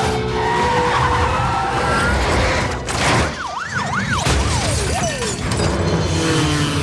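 Movie car-chase sound effects: engines rumbling and tyres squealing, a crash with a sharp impact about three seconds in, then police sirens yelping rapidly up and down, with music underneath.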